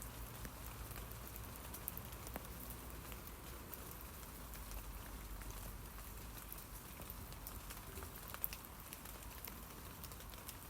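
Steady rain falling on tree leaves, a dense patter of individual drops ticking over a soft hiss, with a low rumble underneath.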